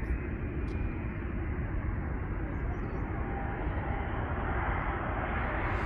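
Airbus A330neo jet airliner on approach, its Rolls-Royce Trent 7000 engines a steady rushing rumble that grows slowly louder, with a faint steady whine coming in about halfway through.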